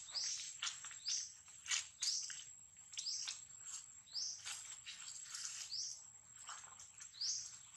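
A bird calling over and over with short rising chirps, roughly once a second, mixed with many brief ticking notes, over a steady high-pitched whine.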